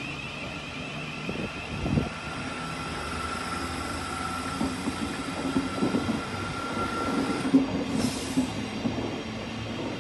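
A Thameslink Class 700 electric multiple unit running past, its wheels rumbling with irregular knocks over the track. A steady high tone stops abruptly about seven and a half seconds in, followed by a brief high hiss.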